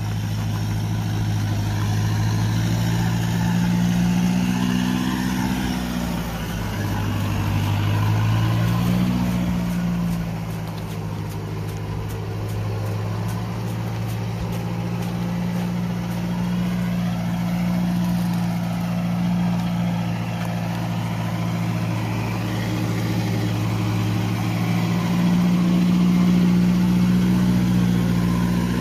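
Mahindra Roxor's 2.5-litre turbodiesel engine, fitted with an aftermarket exhaust, running at low speed under load while towing a heavy tractor. Its pitch rises and dips a couple of times in the first ten seconds, then holds fairly steady.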